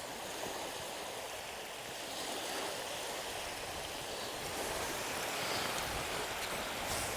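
Steady wash of sea surf on a sandy beach.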